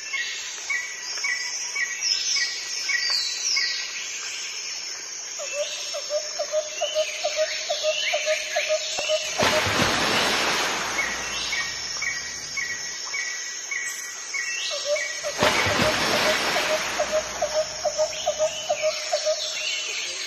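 Birds calling in runs of short, evenly repeated chirps, one higher-pitched series and one lower, over a steady high whine. Two rushing noise swells come in about ten and fifteen seconds in.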